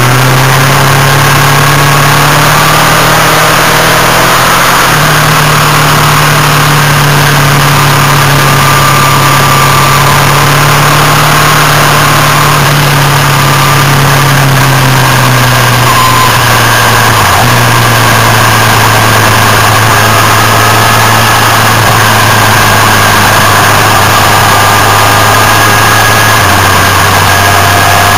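Motorcycle engine running at road speed under loud wind rush on the microphone. The engine note changes pitch a few times and dips briefly about two-thirds of the way through as the revs change.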